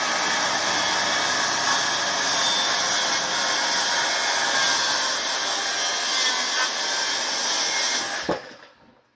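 Circular saw running through a cross cut in a floor panel, a steady loud whine that cuts off about eight seconds in as the saw is switched off and spins down.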